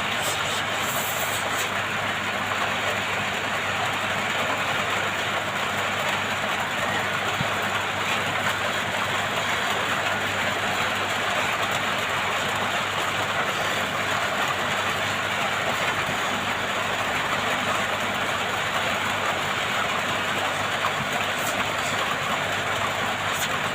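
Hot air rework station blowing steadily with its airflow turned up full, a constant even hiss with a faint hum under it, as it heats the phone's screen to loosen the glue.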